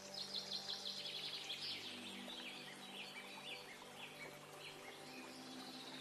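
Small birds chirping: a quick run of high twittering chirps in the first two seconds, then scattered single chirps.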